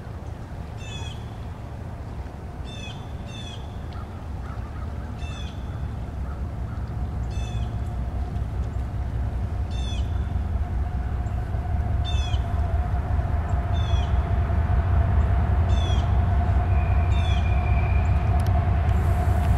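Two CSX diesel locomotives hauling a double-stack container train approach, a low engine rumble growing steadily louder, with a steady whine joining about halfway. A bird calls over it about ten times in short, falling notes.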